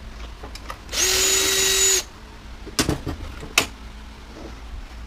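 A power drill runs for about a second at a steady pitch, backing out a screw from the appliance's panel. A few sharp clicks and knocks of metal being handled follow.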